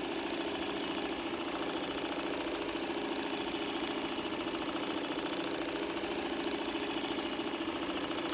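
Electric rotary wet-mop cleaner running steadily, its motor and spinning mop pads making a fast, even buzzing hum.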